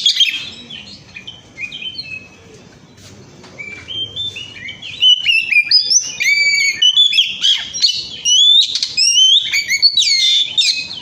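Oriental magpie-robin singing a long, varied run of rapid whistled phrases. The song thins out for a few seconds near the start, then runs on continuously from about halfway through.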